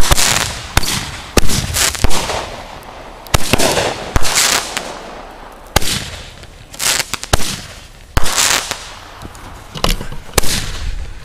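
Consumer fireworks going off: mortar tubes and Roman candles firing more than a dozen sharp bangs and pops at uneven intervals, most followed by a fading hissing crackle.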